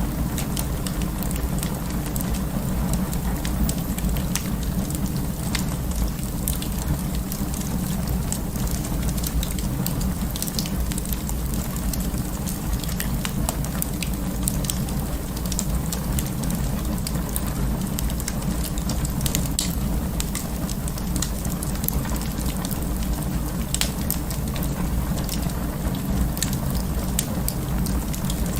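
Wood fire burning in an open fireplace: a steady low rumble of flames with frequent, irregular crackles and pops.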